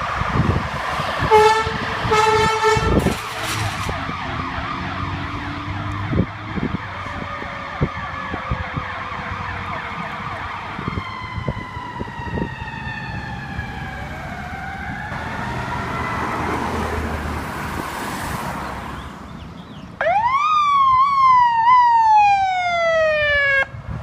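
Emergency-vehicle sirens of responding fire apparatus, with two short air-horn blasts about a second in, a siren wail falling in pitch in the middle, and a loud electronic siren rising sharply again and again near the end before cutting off suddenly.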